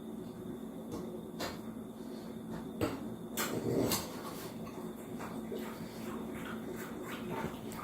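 Scattered light clicks and knocks, several grouped around the middle, over a steady low hum of room noise.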